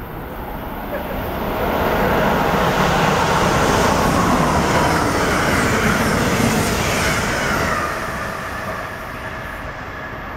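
Electric passenger train passing through the station at speed without stopping. Its sound swells about a second in, stays loud for around five seconds as it goes by, then fades as it pulls away.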